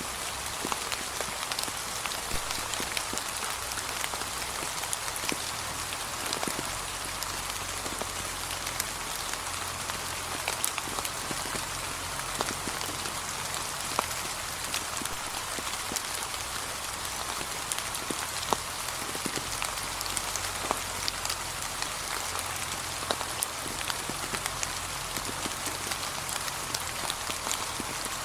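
Steady, gentle rain falling on fallen autumn leaves: an even hiss dotted with many small, sharp drop ticks.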